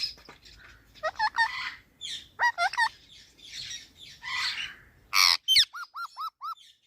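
Pet parrot calling: gliding chirps and harsh squawks, one loud squawk about five seconds in, then a quick run of five short whistled notes near the end.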